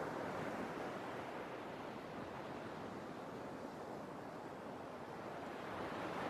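Sea waves washing in. One surge swells at the start and eases off, and another builds near the end.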